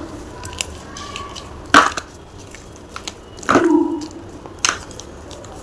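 Block of gym chalk being crushed and crunched, three loud crunches with small crackles in between, the middle crunch the longest.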